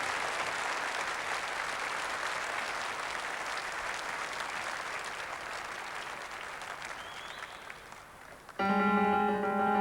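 Audience applauding, slowly dying away; about eight and a half seconds in, a piano comes in suddenly with a loud held chord.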